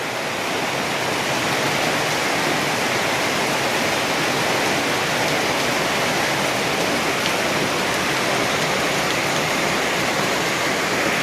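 Heavy rain pouring down, a steady rushing hiss of water.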